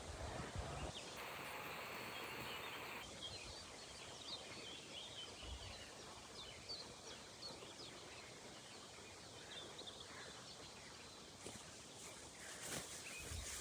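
Faint outdoor ambience with scattered songbird chirps. A brief hiss comes about a second in and stops near the three-second mark.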